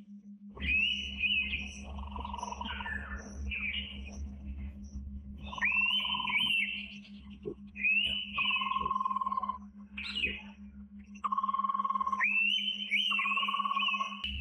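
An Indian pitta calling repeatedly: about four phrases, each a high wavering whistle followed by a lower steady note. A steady low hum and rumble run underneath, and the rumble stops about twelve seconds in.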